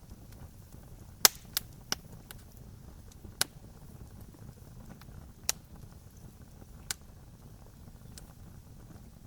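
Wood campfire crackling: sharp pops, three close together about a second in, then single loud pops every second or two, over a faint steady low rumble of the fire.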